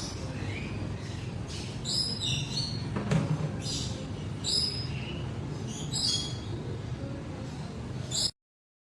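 A parrot chirping in short, high calls, about ten in irregular succession, over a steady low hum. The sound cuts off suddenly near the end.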